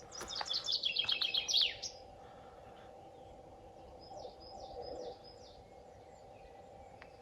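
A songbird singing a fast run of high notes that step down in pitch, lasting about a second and a half near the start. Fainter, short high notes follow a few seconds later.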